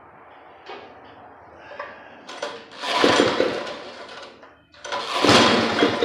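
Small rototiller engine being pull-started on its recoil starter: two hard pulls about two seconds apart, each a burst of the engine cranking over without catching.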